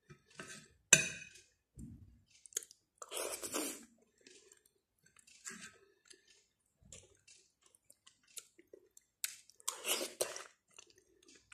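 Close-up chewing and mouth sounds of someone eating soft boiled pumpkin from a metal spoon, with a few short clicks of the spoon. The sounds come in scattered short bursts; the loudest are about a second in, around three seconds in and near the end.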